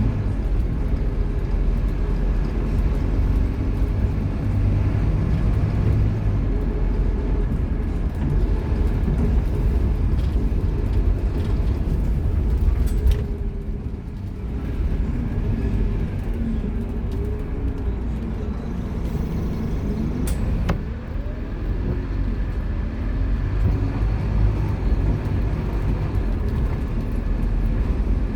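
Scania K230UB Omnilink bus's five-cylinder diesel engine running under way. It eases off and drops in level about halfway through, then pulls again with rising pitch sweeps as the bus picks up speed.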